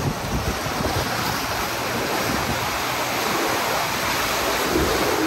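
Rushing, churning river-rapids water around a round white-water raft, heard from aboard, with wind buffeting the microphone. A steady low hum starts near the end.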